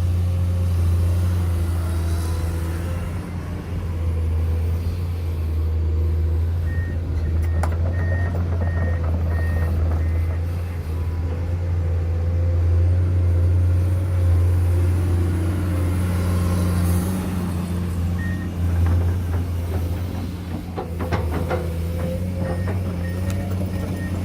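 Heavy diesel construction machinery running with a steady deep drone. A reversing alarm beeps about twice a second for a few seconds around a third of the way in and again near the end, and a few clanks sound in between.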